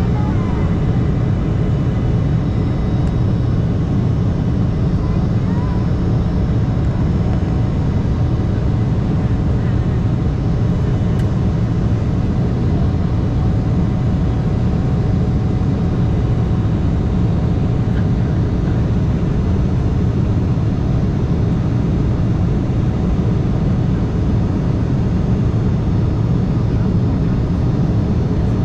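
Steady cabin noise of an Embraer E175 regional jet in flight: the hum of its GE CF34 turbofan engines and the rush of airflow, heavy in the low end and unchanging throughout.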